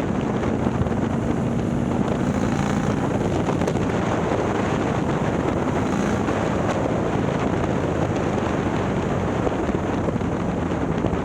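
Harley-Davidson Milwaukee-Eight V-twin, built out to 130 cubic inches with a ThunderHeader exhaust, running steadily with the bike under way, mixed with heavy wind noise on the microphone.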